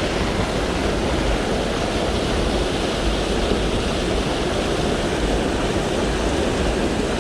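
Steady rush of water spilling over a small waterfall in a rocky stream.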